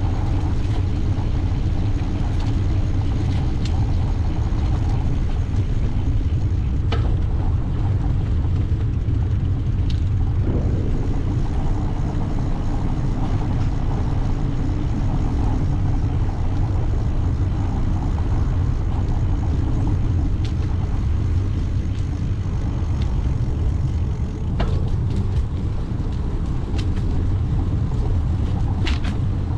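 Steady low wind rumble on the microphone from riding a bicycle, with a few light clicks or rattles here and there.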